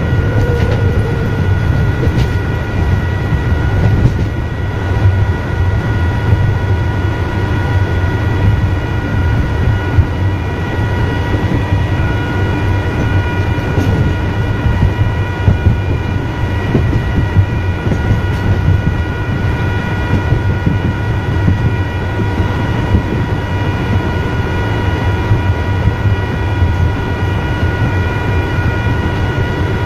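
Electric multiple-unit train running at speed, heard from the driver's cab: a steady low rumble of wheels on track under a constant whine of several steady high tones.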